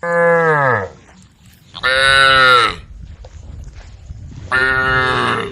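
Cows mooing: three loud calls of just under a second each, the first sliding down in pitch.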